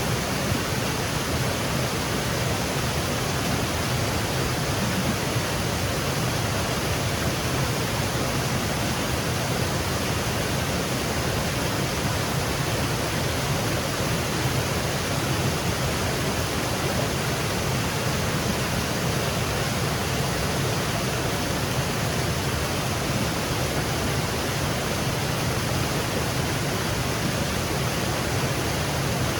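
Small woodland waterfall cascading over rocks: a steady, unbroken rush of falling water.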